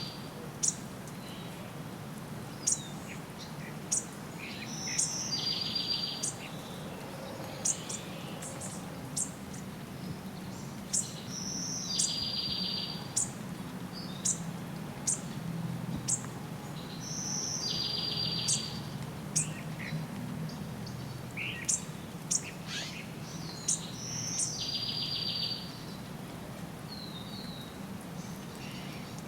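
Wild birds singing. One bird repeats a song about every six seconds, a short high note followed by a rapid buzzy trill, while others give sharp high chirps in between, over a faint steady low hum.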